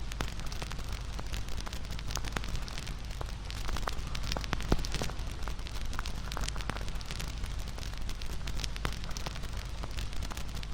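Wood fire crackling: frequent sharp pops and snaps over a steady low rumble and hiss of burning flames.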